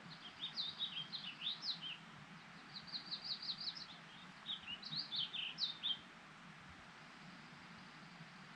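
A small songbird singing three quick phrases of rapid, high chirping notes in the first six seconds, over a faint steady background hiss of wind or water.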